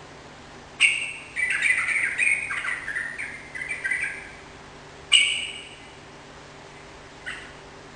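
Sooty-headed bulbul (trucukan) singing vigorously: a sharp call about a second in, then a run of quick chattering notes for about three seconds, another sharp call about five seconds in, and a fainter one near the end.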